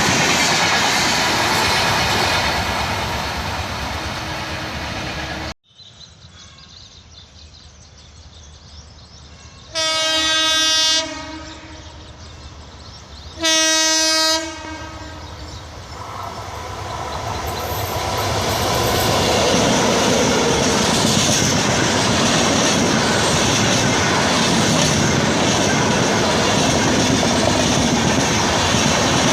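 Indian Railways express train running past with wheels clattering over the rail joints; after an abrupt cut, a locomotive sounds two horn blasts about three seconds apart, each about a second long. The train then approaches and its wheel and coach noise swells to a steady loud passing sound.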